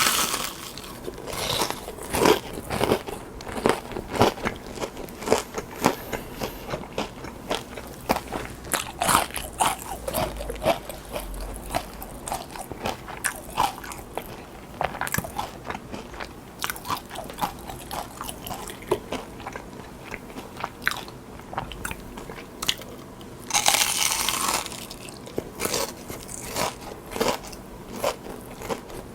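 Close-miked eating: repeated crunchy bites and chewing of deep-fried jumbo shrimp in batter, each crunch short and sharp, at an irregular pace. About 24 seconds in there is a longer, denser stretch of crunching.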